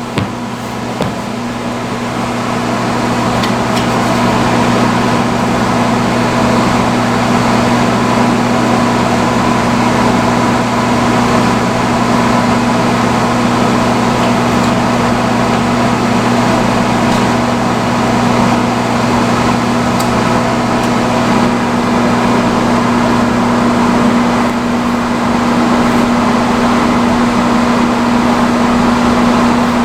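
Vintage salon chair hood hair dryer running on its highest setting: a steady rush of blown air over a low electric hum. The sound builds over the first few seconds as the blower comes up to speed, then holds steady.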